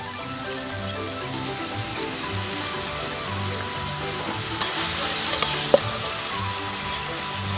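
Twice-cooked pork stir-fry sizzling hard in a pan over a bonfire, being stirred and tossed. The sizzle gets louder about four and a half seconds in, with scattered clicks and one sharp clack from the utensil and pan.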